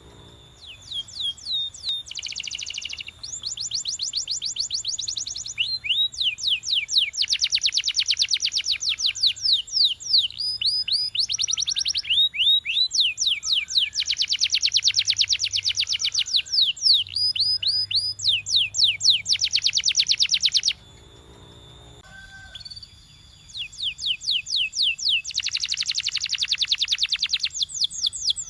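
Canary singing: long rolling tours of rapid repeated notes, some rising and some falling, with short breaks between phrases and a longer pause before the song resumes.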